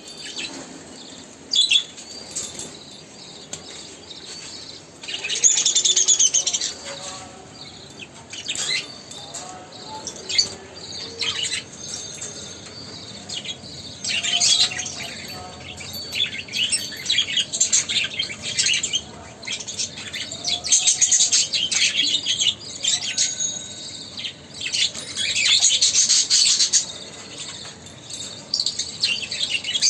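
Pet birds chirping and calling in quick, repeated bursts of short high notes, busiest in several spells through the stretch, with some wing fluttering.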